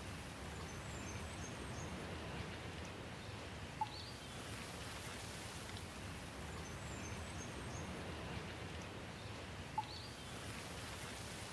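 Steady rain falling outdoors, with a few faint high bird chirps and two short sharp ticks, about four and ten seconds in.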